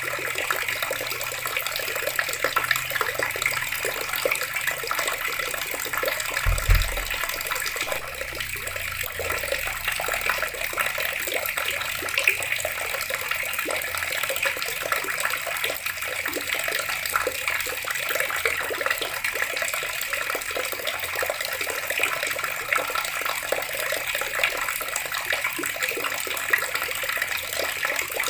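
Water running steadily from a tap and splashing, with a brief low thump about six and a half seconds in.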